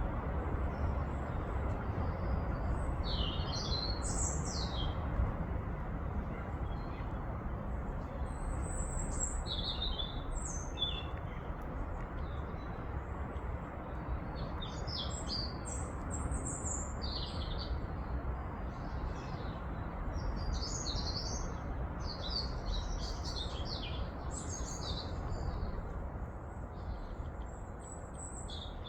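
Small birds chirping in short scattered bursts, over a steady low background rumble.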